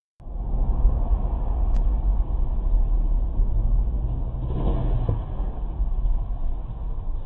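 Vehicle driving noise picked up by a dashcam: a steady low rumble of engine and road, starting suddenly after a silent cut, with a brief louder noisy swell about four and a half seconds in.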